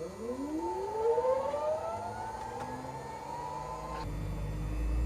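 A whine that rises in pitch over about a second, then holds steady; near the end it breaks off and a low rumble comes in.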